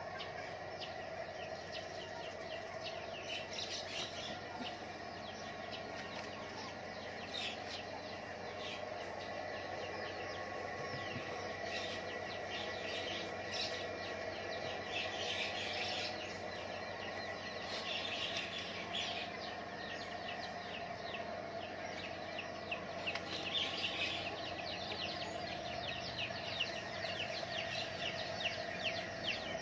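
Small birds chirping and twittering, many short quick chirps in a continuous stream, over a steady background hum.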